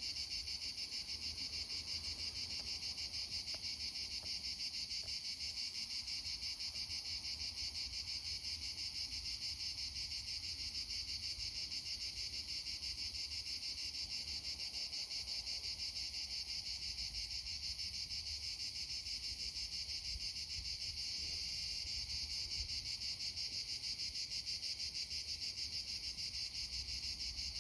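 Steady insect chorus, a continuous high-pitched chirring with a fast, even pulse that never lets up, over a faint low rumble.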